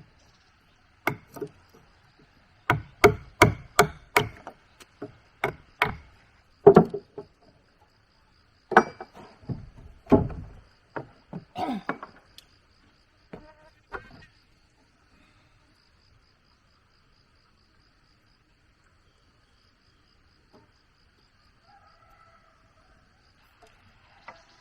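A series of sharp blows of a hand tool striking wood, with a quick run of strikes about three seconds in, stopping after about fourteen seconds. Insects chirp faintly and steadily in the background.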